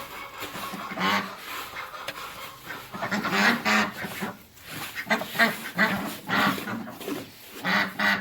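Domestic ducks quacking over and over in short, harsh, irregular calls. The birds are hungry and their feeders are empty.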